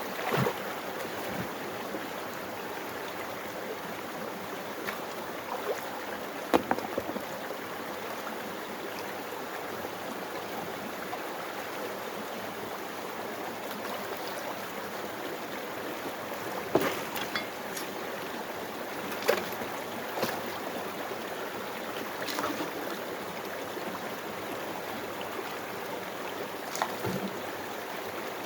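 Water rushing steadily through a gold-mining sluice box, with a few sharp knocks of stones or a shovel scattered through it.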